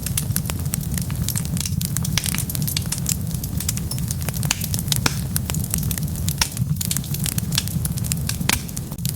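Wood fire burning with dense, continuous crackling and popping over a steady low rumble.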